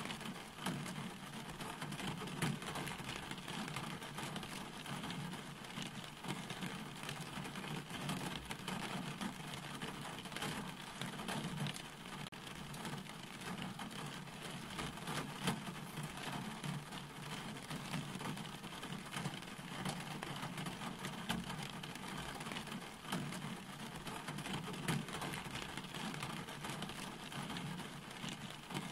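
Steady rain falling, a dense patter of small drop ticks over a low, steady rumble.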